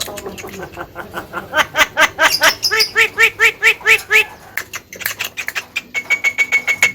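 Javan myna calling and mimicking: a rapid run of repeated chattering notes, then a single long steady whistled note near the end.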